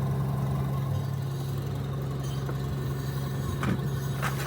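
An engine idling steadily with a low, even hum, with a couple of short knocks about three and a half seconds in and near the end.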